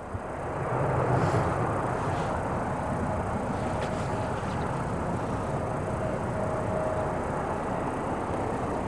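Steady airport apron noise of engines running, faded in over the first second and holding even, with a faint steady whine.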